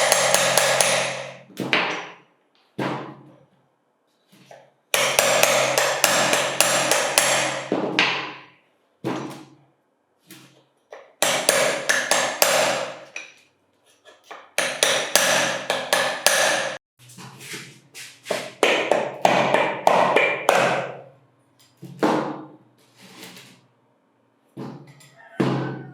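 Hammer striking metal in bursts of rapid blows, each burst a second or a few long, with a metallic ring.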